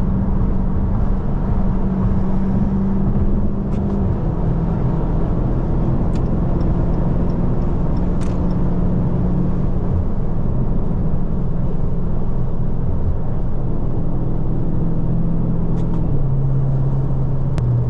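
Dodge Scat Pack's 6.4-litre HEMI V8 with its mid muffler deleted, heard from inside the cabin while cruising on the highway: a steady exhaust drone over road noise. Its pitch steps down about four seconds in and twice more near the end.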